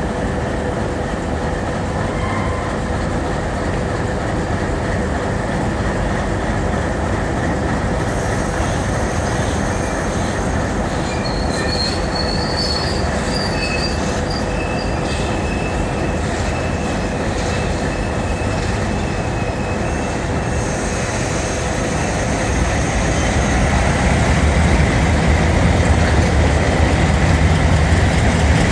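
Alco diesel locomotive moving slowly with freight cars: steady engine drone and wheel noise on the rails, with high-pitched wheel squeals through the middle and a louder, deeper rumble over the last few seconds.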